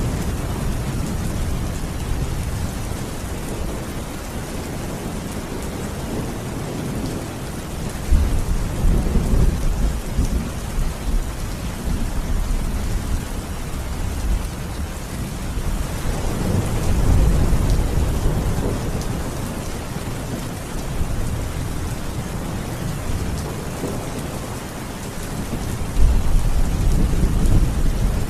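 Steady rain with rolling thunder: low rumbles break in about eight seconds in, swell again around seventeen seconds, and break in once more near the end.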